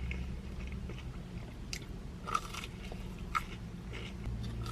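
Close-up chewing and crunching of a potato-crusted Korean corn dog (breading studded with fry-like potato cubes), with scattered mouth clicks and a couple of sharper crunches about two and three and a half seconds in.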